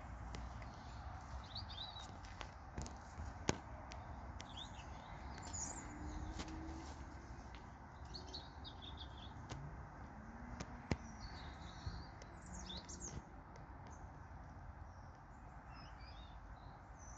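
Faint, brief high bird chirps scattered over a steady low background hum, with a few sharp clicks.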